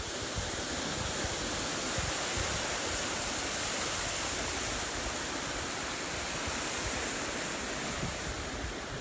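Ocean surf washing steadily, with wind buffeting the microphone in gusts.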